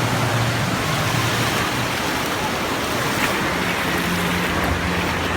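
Steady rushing water, a loud, even wash of noise with no breaks.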